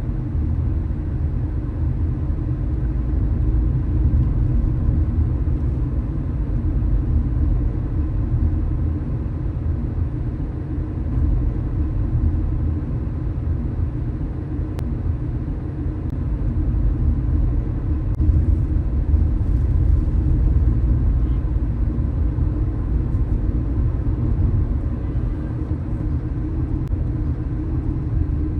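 Steady low rumble of a car driving along a street: engine and tyre noise on the road, with no distinct events.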